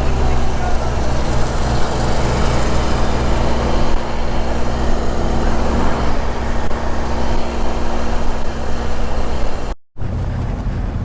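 BMW R1200 motorcycle's boxer-twin engine running steadily under a continuous rush of wind and road noise. The sound drops out for a moment near the end.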